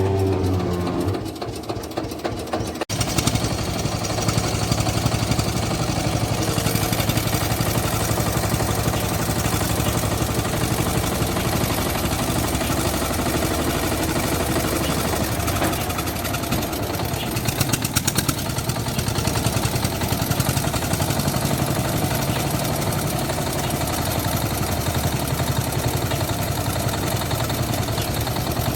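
Eicher tractor's diesel engine running steadily. The sound cuts abruptly about three seconds in and carries on at an even level.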